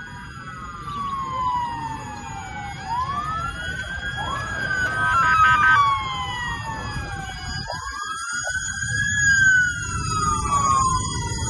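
Several emergency-vehicle sirens wailing at once, each slowly rising and falling in pitch over a few seconds and overlapping one another, over a low rumble.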